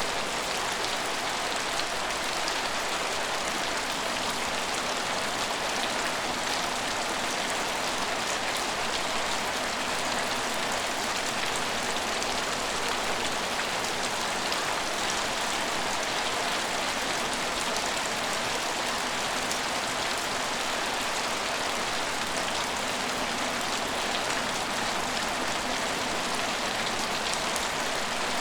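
Steady rain falling, an even hiss of drops on hard surfaces with no breaks or single loud events.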